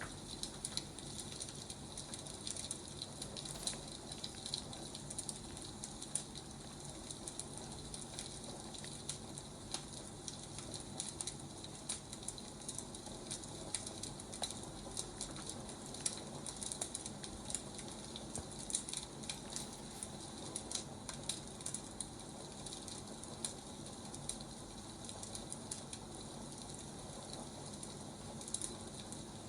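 Wood fire crackling: irregular small pops and snaps over a steady soft hiss.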